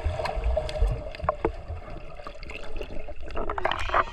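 Water splashing and lapping in a hot-spring pool, with many small splashes and a louder rush of water near the end, over a low rumble on the microphone.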